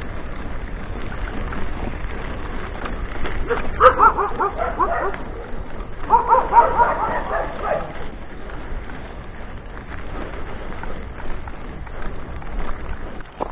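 An animal barking in two quick bursts of short yaps, about two seconds apart, over a steady background rush.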